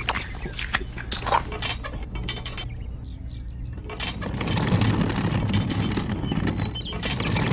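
Small mechanism clicking and clinking over a low steady hum, then from about four seconds in a louder, gritty rushing noise.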